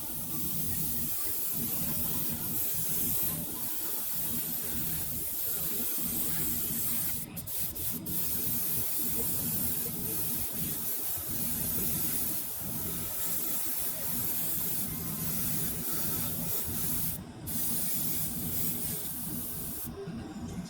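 Paint being sprayed onto a model part: a steady hiss that stops briefly a few times as the spray is let off and started again.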